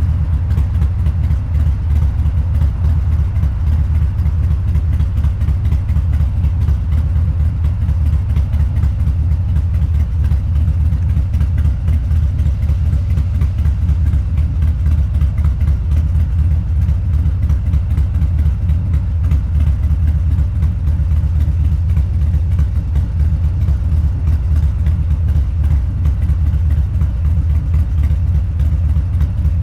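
Harley-Davidson Low Rider's 129 cubic inch V-twin, breathing through a Two Brothers Racing exhaust, running loud and steady with an even low pulse and no big rise or fall in revs.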